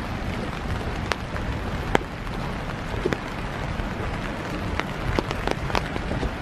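Steady winter rain falling, with scattered close raindrops ticking at irregular intervals over a low rumble.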